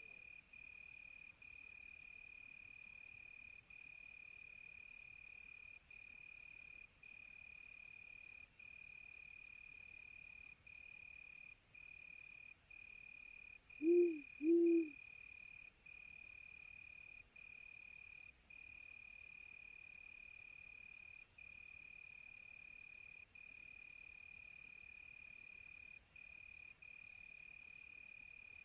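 Crickets chirring in a steady high trill, with two owl hoots in quick succession about halfway through.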